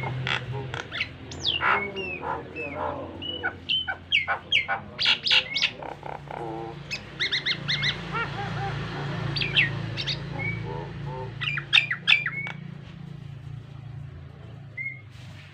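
Jalak nias (a starling) singing a fast, varied run of sharp whistles, clicks, squawks and gliding notes. The phrases thin out toward the end, over a steady low hum.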